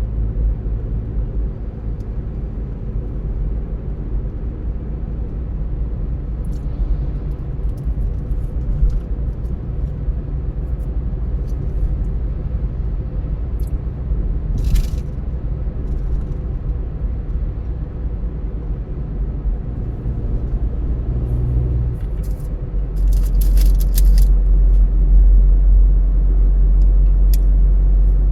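Car driving along the road: a steady low rumble of engine and tyres, growing louder about three quarters of the way through, with a few faint clicks and rattles.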